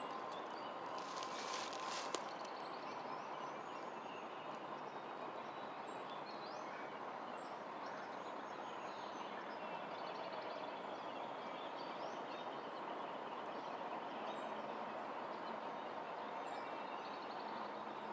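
Steady outdoor background noise with faint bird chirps now and then, and a few sharp clicks between one and two seconds in.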